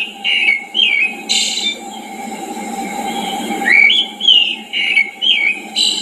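Songbird singing a phrase of slurred whistled notes twice, about four seconds apart, each phrase followed by a short harsh rasp. A steady low rushing noise lies underneath.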